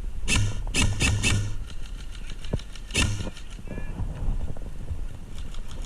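Airsoft gun firing: four quick shots in about a second, then one more about two seconds later, with fainter rapid shots near the end.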